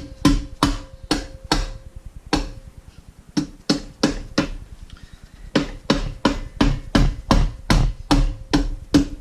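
Repeated hammer blows, about two to three a second, tapping the end plate of a Mazda RX-8 13B Renesis rotary engine down onto the housing stack to seat it. The blows pause briefly about three seconds in, then resume.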